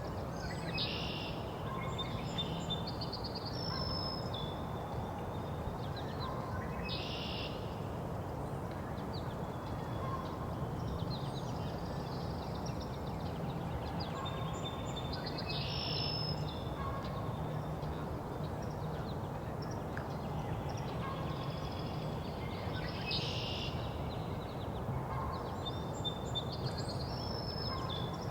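Mixed spring songbird chorus: song sparrow, American goldfinch and northern cardinal singing, their short phrases repeating every few seconds over a steady low background hum.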